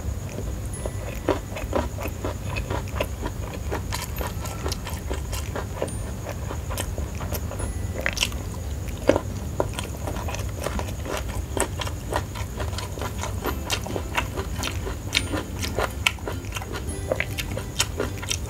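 Close-miked chewing and wet mouth sounds of a person eating rice and side dishes by hand, with many small clicks and smacks throughout.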